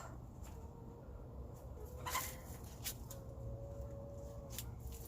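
Chickens calling faintly, with one longer, low drawn-out call just past the middle, over a few light clicks and a brief rustle.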